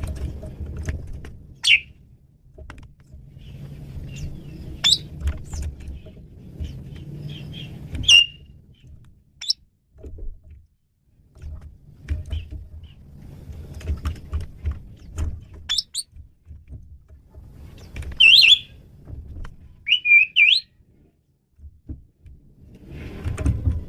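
Male Asian pied starling (jalak suren) singing a varied song: scattered short, sharp whistled notes and brief chattery phrases, several of them gliding in pitch. A low rumble comes and goes beneath the song.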